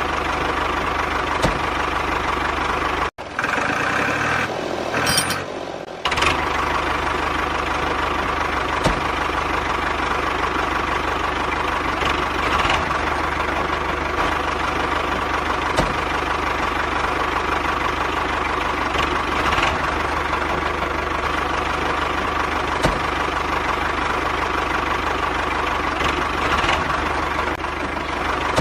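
A motor running steadily with an even mechanical whir, broken off briefly about three seconds in, then carrying on unchanged.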